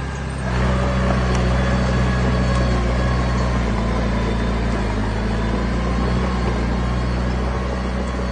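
Heavy diesel earthmoving machine running steadily, its engine note stepping up about half a second in and holding under load.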